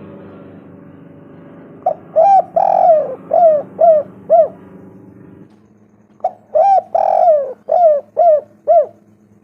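Spotted dove cooing: two phrases, each a quick pickup note, a longer burry coo and then a few short coos.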